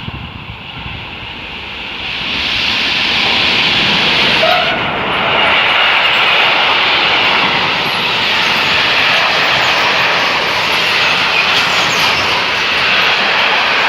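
Train passing close by: a loud rushing noise that builds about two seconds in and then holds steady.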